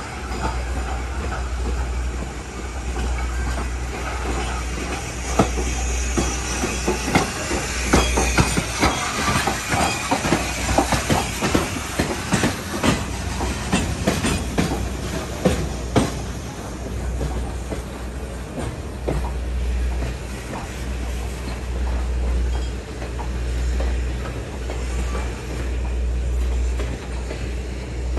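Passenger train rolling along the rails, heard from aboard a coach: a steady low rumble, with a run of clicks and clacks of the wheels over rail joints in the middle.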